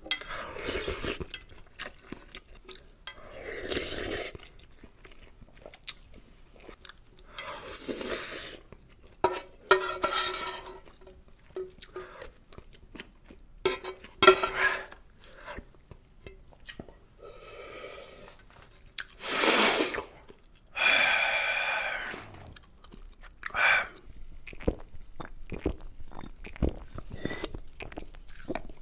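A person eating Shin Ramyun instant noodles close to the microphone: irregular chewing, with several louder bursts of about a second each.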